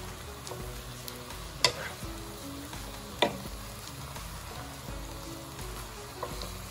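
Chopped mustard greens sizzling as they are stir-fried in a nonstick frying pan and turned with a wooden spatula. Two sharp knocks of the spatula against the pan, about a second and a half apart, stand out over the steady sizzle.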